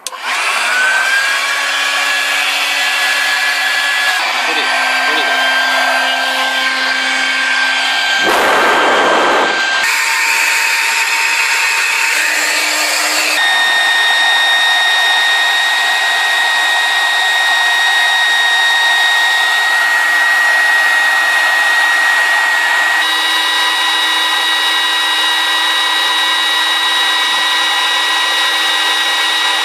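Small electric motor of a handheld 3-in-1 car vacuum cleaner, air blower and pump, running with a steady high whine and rushing air. It spins up at the start, then shifts pitch several times as the airflow or load changes, with a brief louder rush of air about eight seconds in.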